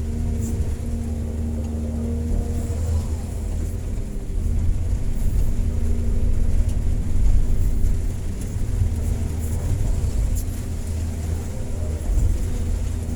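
Excavator's diesel engine running with a steady low drone, a hydraulic whine held for the first few seconds and returning near the end, the engine getting louder about halfway through as it works.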